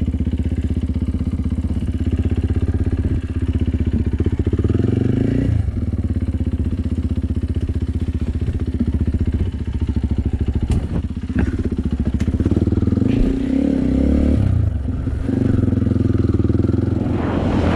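Enduro dirt-bike engine running at low trail speed, its revs rising and dipping a few times. A few sharp knocks come about eleven seconds in.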